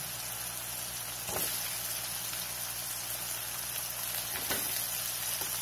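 Shallots frying in hot oil in a kadai, a steady sizzle, with two soft knocks as tomato pieces go into the pan, the first about a second and a half in and the second past four seconds.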